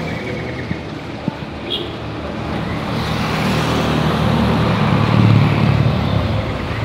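Street traffic: a motor vehicle passes close by, its engine and road noise building to a peak about five seconds in and then easing off.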